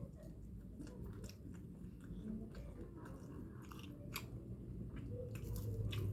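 A person chewing food close to the microphone, with scattered small crisp crunches and mouth clicks.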